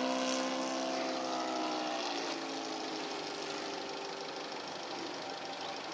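Laser 200V four-stroke V-twin glow engine of an RC model biplane in flight, heard from the ground. Its tone drops slightly in pitch and grows fainter over the first couple of seconds, then settles into a faint steady drone.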